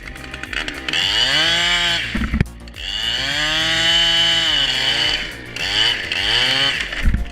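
Chainsaw engine revving to full throttle and dropping back three times, its pitch rising, holding high and then falling at the end of each burst.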